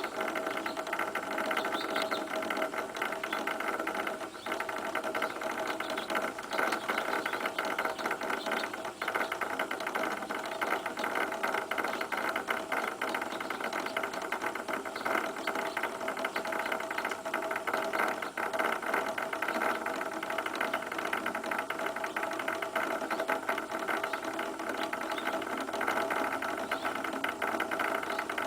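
A machine running steadily with a fast, continuous rattle over a constant hum, without let-up.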